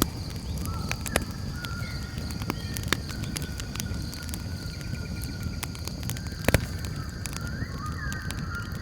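Campfire crackling, with sharp pops scattered through it and a louder double pop about six and a half seconds in. Behind it, a steady high insect trill and birds calling with gliding whistled notes.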